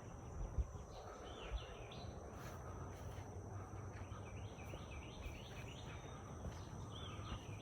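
Birds chirping repeatedly in short calls over a steady high-pitched tone and a faint low rumble of outdoor background.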